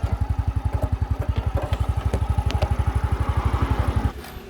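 Two-stroke petrol engine of a YN30A mini rock drill running with an even, rapid pulsing, about ten beats a second, that cuts out about four seconds in.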